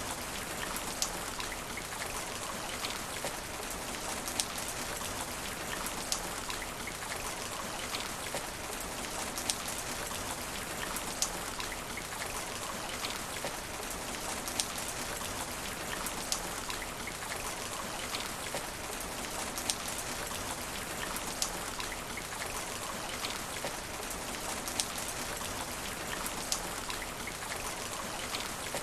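Steady rain falling on asphalt, an even patter with many sharp individual drop hits scattered throughout.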